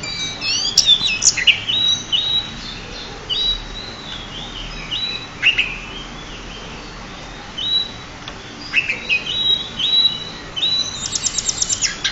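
Pied bushchat (decu) singing: a run of repeated clear whistled notes with quick downward slurs, ending in a fast trill.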